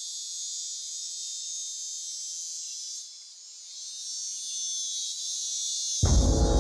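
Steady high-pitched chorus of rainforest insects, crickets or similar, which dips briefly a little after halfway. Near the end, loud music cuts in suddenly.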